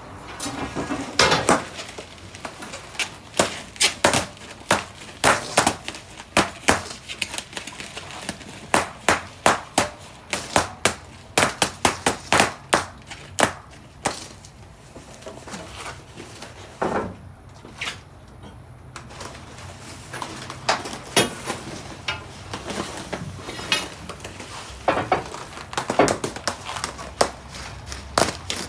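Balloons popping one after another: dozens of sharp bangs at an irregular pace, often several a second, with a brief lull partway through.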